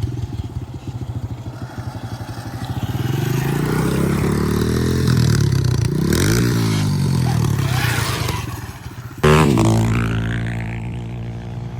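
Dirt bike engine running and revving, its pitch rising and falling as it is ridden. About nine seconds in it suddenly gets much louder, then fades away.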